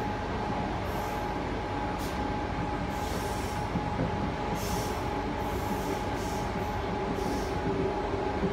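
Interior running noise of a Sydney double-deck electric commuter train on the move: a steady rumble with a thin steady whine, and a lower hum that grows stronger near the end.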